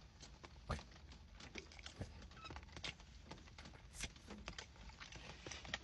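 Faint, scattered wet clicks and smacks of someone chewing hot chicken wings.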